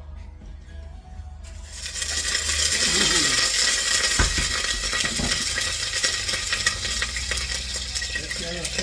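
Food hitting hot cooking oil in a pan and sizzling loudly, starting suddenly about a second and a half in and holding steady, with the clicks and scrapes of a utensil stirring it.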